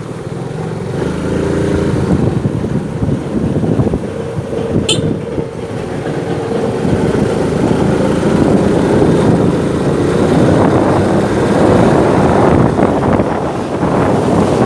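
Motorcycle engine running as it is ridden in street traffic, its pitch rising and falling with the throttle, getting louder over the second half with more road and wind noise. A brief high chirp about five seconds in.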